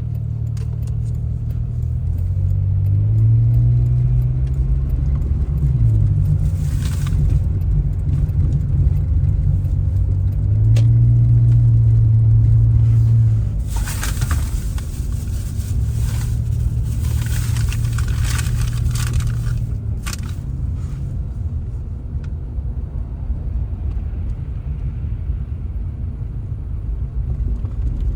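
Car driving, with a steady low engine and road rumble whose engine note shifts up and down with speed. Bursts of hissing noise come in briefly about a quarter of the way through, then for several seconds around the middle.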